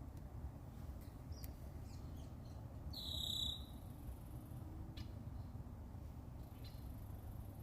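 Red-winged blackbird song: one loud buzzy trill about three seconds in, lasting about half a second. A few faint short call notes come before and after it, over a low steady background rumble.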